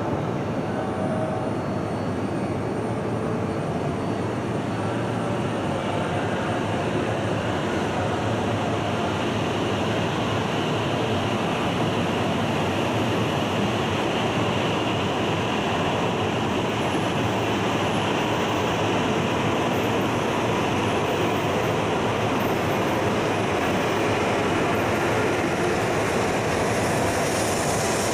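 E5 series Shinkansen pulling out of the platform and gathering speed. A continuous rumble and rush of running noise slowly grows louder and brighter as it accelerates.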